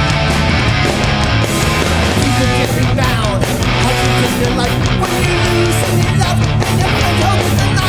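Live hardcore punk band playing loudly: distorted electric guitars, bass and drums.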